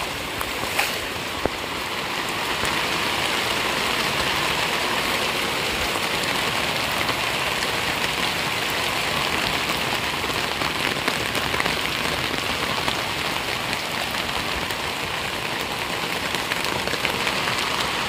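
Steady rain falling, an even, dense hiss, with a couple of faint ticks about a second in.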